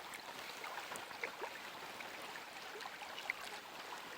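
Steady rush of flowing stream water, with a few faint short chirps over it.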